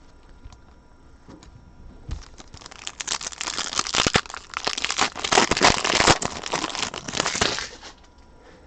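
Crinkling and tearing of a foil trading-card pack wrapper as it is opened, a dense crackle lasting about five seconds, starting a couple of seconds in.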